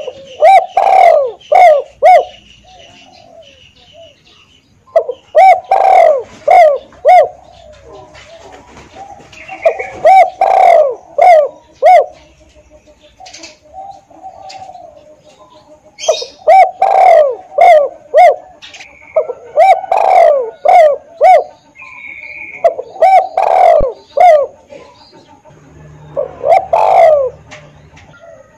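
Spotted dove cooing: about seven phrases, each a quick run of several short coos, a few seconds apart, with faint chirping between them.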